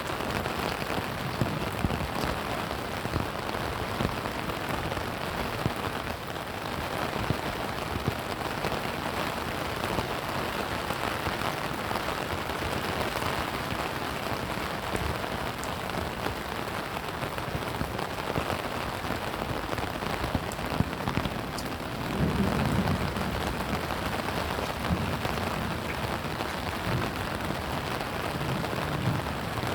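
Steady rain falling, with individual drops ticking sharply now and then. About two-thirds of the way through, a low rumble swells for a couple of seconds.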